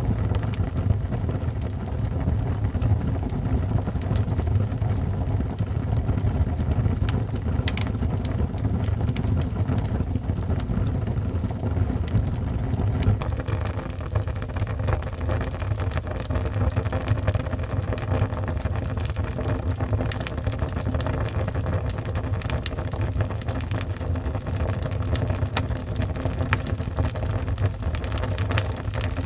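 Wood fire burning in a fireplace: a steady low rumble of flames with frequent small crackles and pops from the logs, the crackling growing busier about halfway through.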